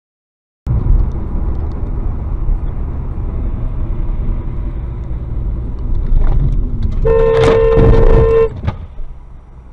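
Loud low rumble of a car driving on the road, then a car horn honking once, held for about a second and a half near the end.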